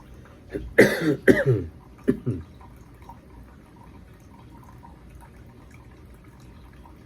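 A man coughing and clearing his throat, three or four short bursts in the first two and a half seconds. After that comes a faint steady trickle with small drips from a single-serve coffee maker brewing into the cup.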